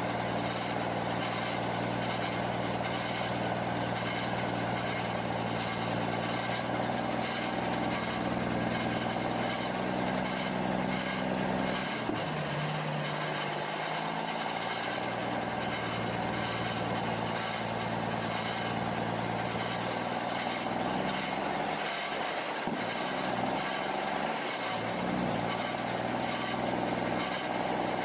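Big rig's diesel engine running steadily, its pitch shifting a few times as engine speed changes.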